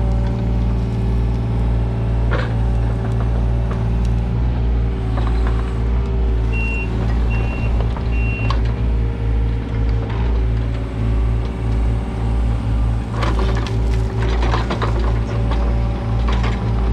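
Kubota U55-4 mini excavator's diesel engine running steadily with a pulsing rhythm, with occasional knocks and a stretch of clanking late on. Three short high beeps sound near the middle.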